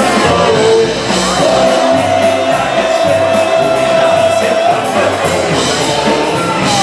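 Live polka band playing a polka over a bouncing, on-the-beat bass line, with one long note held through the middle.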